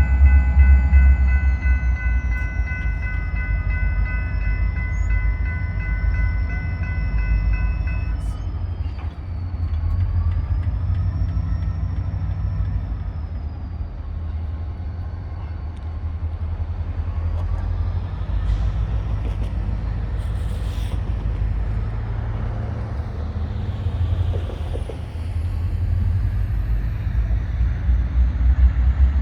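EMD GP40-2 diesel-electric locomotives running with a deep, steady engine rumble while switching. A high, steady multi-pitched ringing tone sounds over them for the first eight seconds or so, then cuts off.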